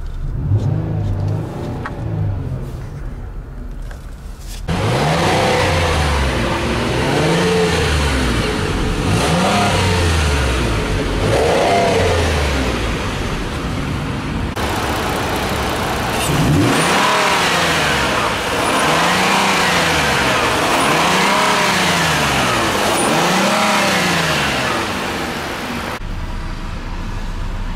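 2015 Ford Explorer's 3.5-litre V6 being free-revved while parked: a series of short revs about every two seconds, each climbing and falling back to idle. The first few are heard muffled from inside the cabin; the rest are heard from the exhaust at the rear.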